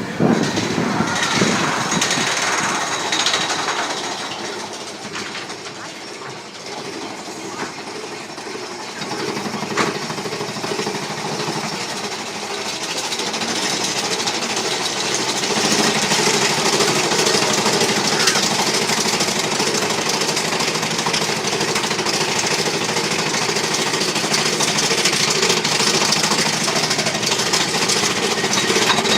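Big Thunder Mountain Railroad mine-train roller coaster running along its track, a steady rattling and clattering of the cars. It dips for a few seconds about four seconds in, then builds up again.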